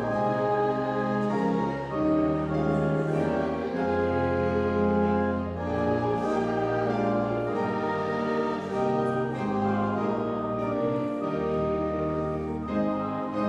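Church organ playing a hymn in slow, sustained chords that change every second or so.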